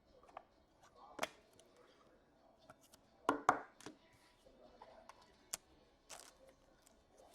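Trading cards and pack wrappers being handled on a table: scattered short clicks, snaps and rustles, the loudest a quick double snap a little past three seconds in.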